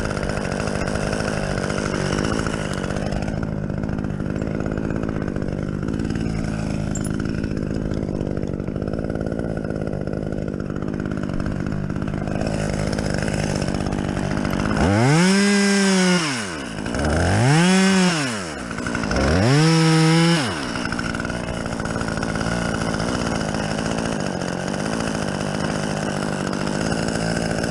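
Two-stroke chainsaw idling steadily, revved three times in quick succession about halfway through, each rev climbing and falling back, then settling back to idle.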